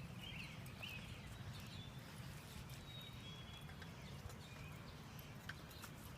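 Quiet background: a steady low rumble, with a few faint light clicks and several short high chirps.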